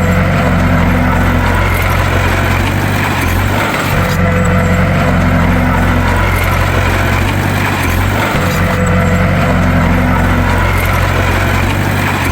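Heavy diesel engine of a bulldozer running steadily under load, a deep, loud drone. The same pattern comes back about every four and a half seconds.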